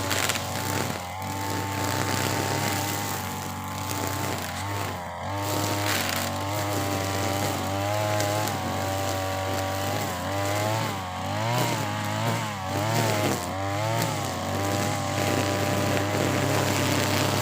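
TB43 two-stroke brush cutter with a nylon trimmer head running at full throttle through thick grass. Its engine note dips and recovers several times past the middle as the line bogs in the grass.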